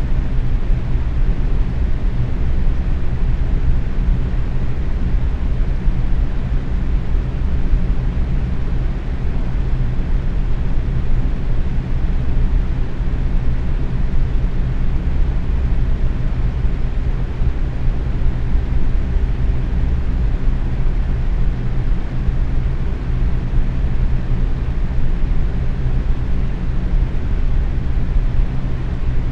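Box fan running steadily at medium speed: an even, low-pitched whoosh of moving air with a faint motor hum underneath.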